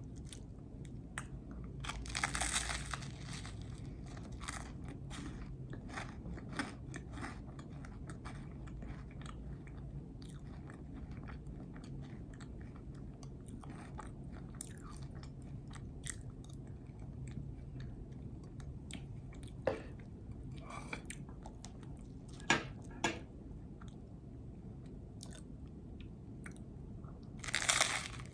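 Close-miked chewing of a peanut butter and jelly sandwich: soft wet mouth clicks and smacks throughout, with louder bites about two seconds in and again near the end, over a low steady hum.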